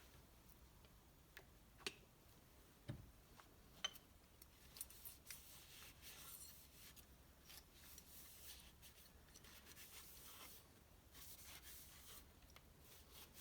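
Faint hand-work sounds on an engine block: a few light clicks and taps, then soft rubbing and scraping as a cylinder is oiled.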